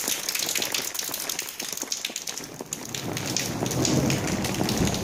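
Heavy rain falling on a stone-paved street, a dense hiss of many drop hits. About three seconds in a low rumble of thunder rolls in and grows louder.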